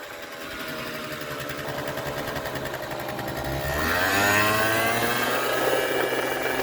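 Kymco Super Fever ZX 50cc two-stroke scooter engine running warm, revved up sharply about four seconds in and held at high revs. It runs much better now that it is hot.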